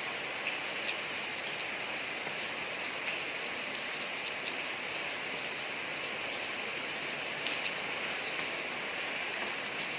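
Steady rain falling on a street, a dense even hiss with scattered sharper drop ticks.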